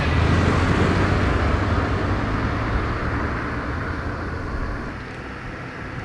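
Loud jet engine noise from an Airbus A321neo airliner passing close by, a deep rumble under a broad rush, slowly fading over the last couple of seconds.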